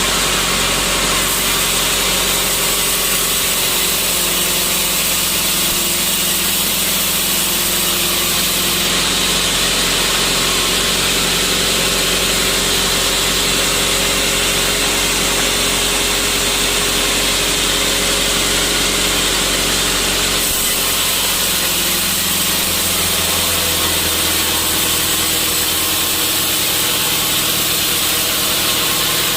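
Sawmill machinery running steadily and loudly, a dense high hiss over a steady hum. Its tone shifts a little about a third of the way in and again about two thirds in.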